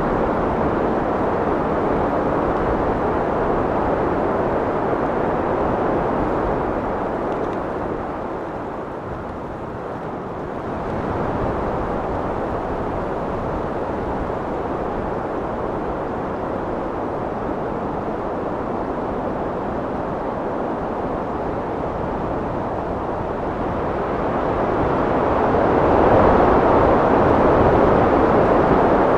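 Wind blowing steadily in a low rushing noise, easing off about a third of the way in and then building into a stronger gust near the end.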